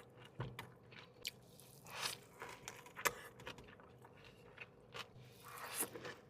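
A person biting and chewing a large burger, with scattered short crunches and mouth clicks.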